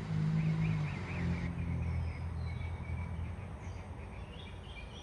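A low, steady engine-like hum that fades over the first few seconds, with birds chirping.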